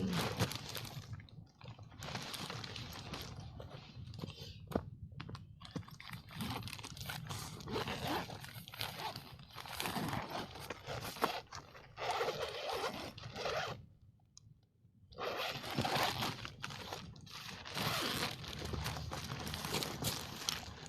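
Irregular crunching, crinkling and scraping of packaging being handled and torn open, with a short pause about fourteen seconds in.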